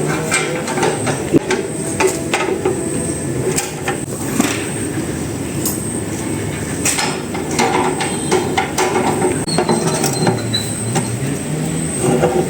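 Old Yamaha generator's small engine running, its pitch dipping briefly about two-thirds of the way through and recovering, with many sharp metallic knocks and clatter over it.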